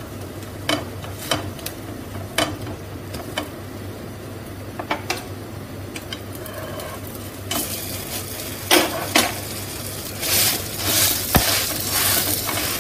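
Semolina-batter-coated bread slice frying in oil in a pan, sizzling steadily, with a utensil tapping and scraping the pan now and then. The sizzle grows louder a little past halfway.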